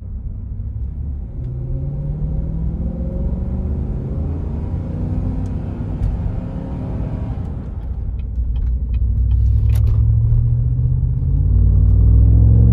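Exhaust of a 2017 Chevrolet Silverado with its muffler deleted, a deep rumble whose pitch rises as the engine speeds up, then louder and rising again in the last few seconds. A few sharp clicks sound about eight to ten seconds in.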